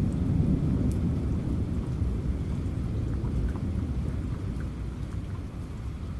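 Thunder rumbling over steady rain, the deep rumble loudest at first and slowly fading away. Scattered drip ticks sound through the rain.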